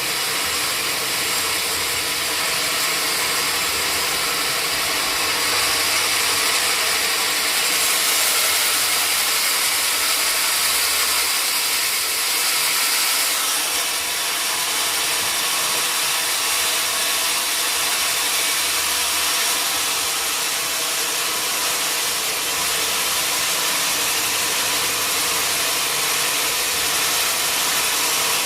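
Sawmill saw running steadily with a loud, high hiss that grows brighter for a few seconds from about eight seconds in.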